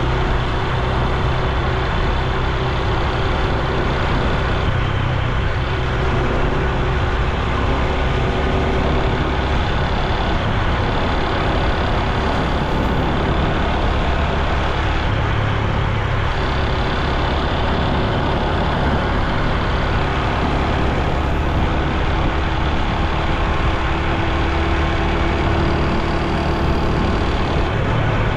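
Honda Super Cub C125's air-cooled single-cylinder four-stroke engine and exhaust running steadily under way, the engine note shifting a little as the throttle changes.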